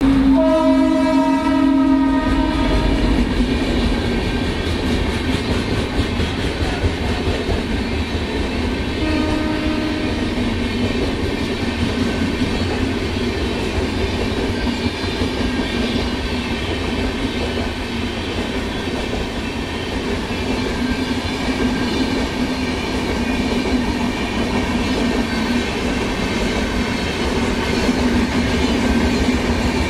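Indian Railways electric locomotive passing at speed and sounding its horn for about three seconds, with a second short horn blast about nine seconds in. Then the steady rumble and clatter of the passenger coaches running past.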